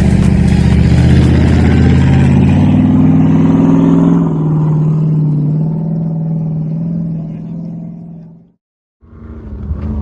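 A motor vehicle's engine running loud and steady, its note shifting a couple of times, then fading away over several seconds until it cuts off about eight and a half seconds in. Half a second later a different engine sound starts up.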